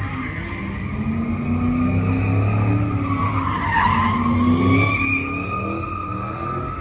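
Car tires squealing in a long, wavering screech as they spin on the pavement, with the engine running at high revs underneath. The squeal dips in pitch briefly about four seconds in.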